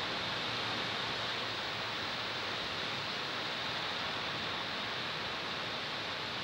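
Steady rain falling, an even hiss with no thunder and no single drops or claps standing out.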